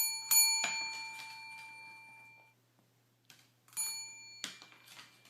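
A small metal bell struck three times in quick succession and left ringing, then struck once more nearly four seconds in, its ring cut short after a moment.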